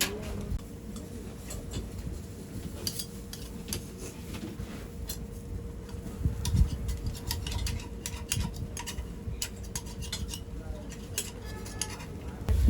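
Metal utensils clinking and tapping on pans and griddle moulds, many sharp irregular clicks, over a steady faint hum.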